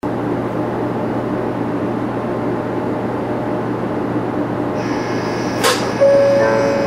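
Interior of a 500 series Shinkansen motor car: a steady hum and rush of onboard equipment. About five seconds in, the Toshiba GTO VVVF inverter starts up with a high whine, a sharp click, then a steady, louder inverter tone as traction power comes on.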